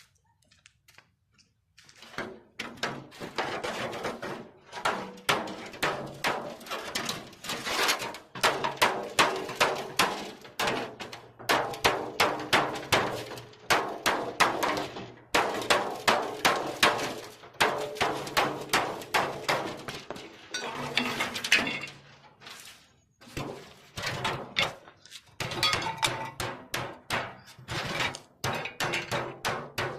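Hammer striking metal over and over, a fast run of ringing blows about two or three a second, broken by a few short pauses. The blows start about two seconds in.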